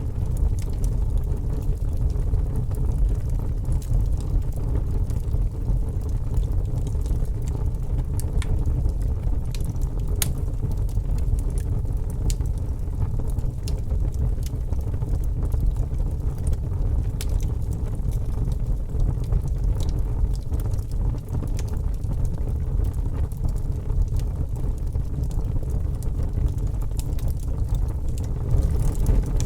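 Fire crackling: a steady low rumble of burning with scattered sharp pops and snaps.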